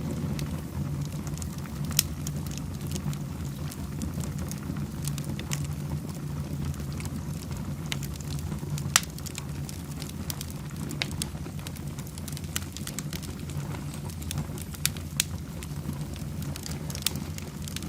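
Wood fire burning in a fireplace, crackling steadily with scattered sharp pops, the strongest about 2 and 9 seconds in, over a steady low background rumble.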